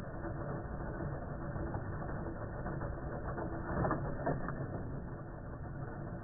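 Vintage Hot Wheels Super-Charger's battery-powered booster running with a steady gear whir and rattle as toy cars run through on the plastic track, with a louder clatter about four seconds in.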